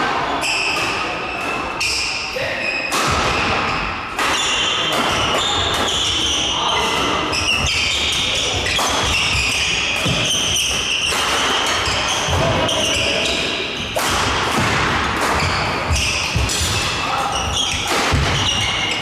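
Badminton rally in doubles play: rackets striking the shuttlecock in quick, irregular sharp hits, with players' and onlookers' voices in the background.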